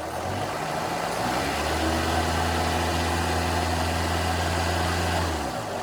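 Rebuilt Mercedes V8 engine running: it rises in speed over the first second or so, holds a steady raised speed for about four seconds, then drops back near the end.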